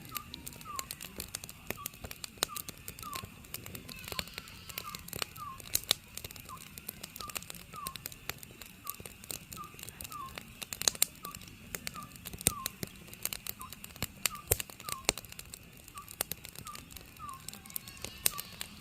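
Oriental scops owl calling: a short, falling note repeated steadily, about twice a second. Throughout, a wood fire crackles with frequent sharp pops.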